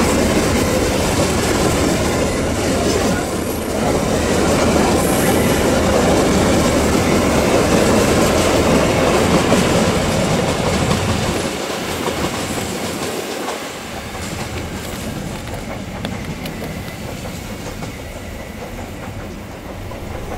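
Empty coal hopper wagons of a long freight train rolling past on curved track, a steady rumble with wheels clattering over the rails. The sound eases off over the last third as the tail of the train goes by.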